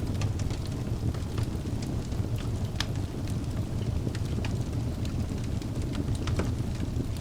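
Wood fire burning in a fireplace: a steady low rumble of the flames with frequent small sharp crackles and pops from the burning logs, a sharper pop about three seconds in.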